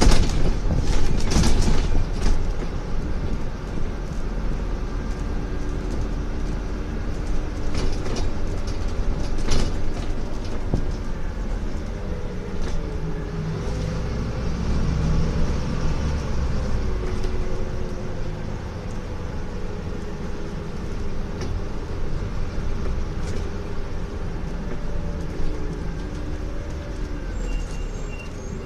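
Scania N250UD Enviro400 MMC double-decker bus, heard from inside the passenger cabin while it drives. Its five-cylinder diesel engine note rises and falls over a steady low road rumble, with sharp knocks and body rattles in the first ten seconds.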